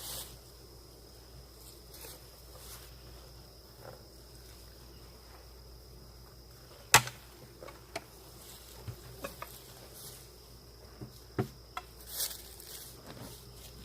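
Scattered sharp knocks and clicks from opening and handling a wooden beehive during an inspection, one much louder about seven seconds in. Bees are buzzing faintly underneath.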